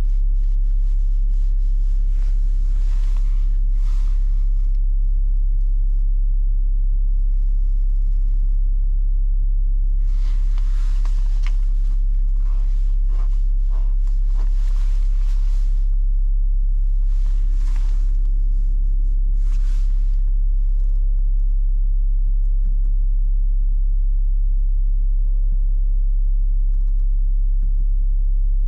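BMW 530d's three-litre straight-six diesel idling, a steady deep rumble heard from inside the cabin. Several short bursts of rustling noise come and go in the first twenty seconds.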